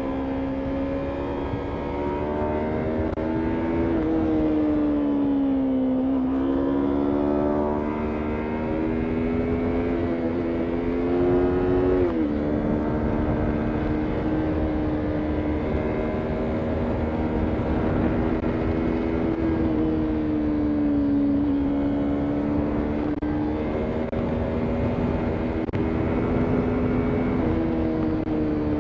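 Yamaha MT-03 motorcycle engine pulling steadily while riding, its pitch rising and falling with the throttle and dropping sharply at several gear changes, the clearest about twelve seconds in. A rushing noise sits low underneath.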